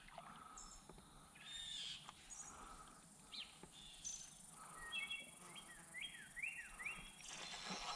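Faint birdsong from nearby songbirds: scattered chirps, then a quick run of about five short falling whistled notes around the middle of the stretch.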